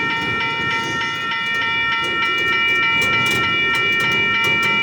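Railroad grade-crossing bells clanging, a cluster of ringing tones sustained throughout with repeated sharp strikes, over the low rumble of an intermodal freight train.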